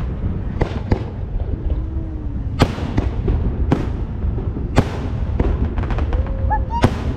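Fireworks display going off: about six sharp bangs over a continuous low rumble of aerial shells bursting.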